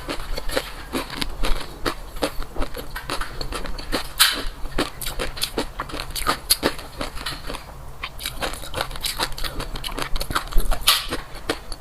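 Close-miked eating: rapid, irregular wet crunching and chewing clicks, with a couple of louder crunches about four seconds in and near the end.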